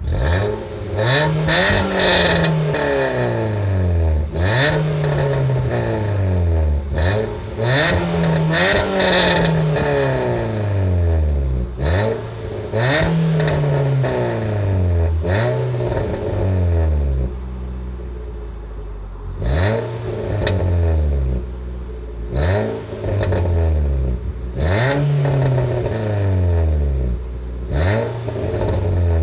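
Nissan Qashqai's 1.6-litre 16-valve four-cylinder petrol engine being revved through a new aftermarket rear exhaust back box. There are about a dozen quick throttle blips, each rising sharply and falling back toward idle, with a short spell of idle past the middle. The exhaust note is a burble with wee pops as the revs drop.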